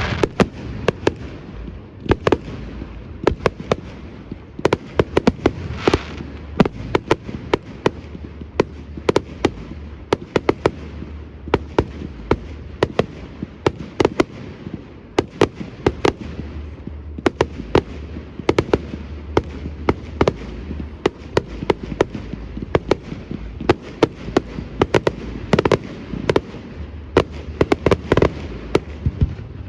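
Fireworks display: a rapid, irregular barrage of sharp bangs and crackles from bursting aerial shells, several a second throughout, over a steady low rumble.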